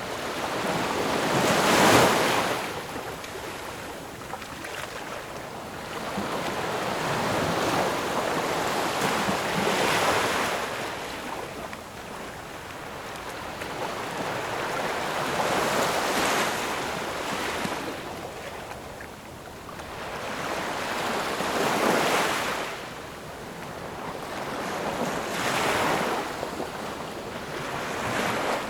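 Ocean waves breaking and washing on a shore, each surge of surf swelling and fading in turn, about one every six seconds; the first, about two seconds in, is the loudest.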